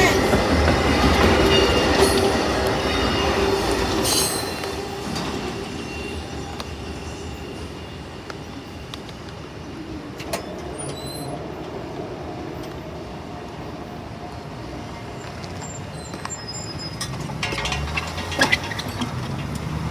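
A train rolling past on the rails with wheels squealing, loud for the first few seconds and then fading away.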